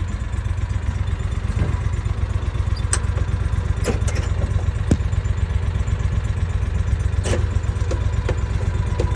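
A steady low engine rumble, like a large tractor engine idling, with a few short knocks and clicks over it.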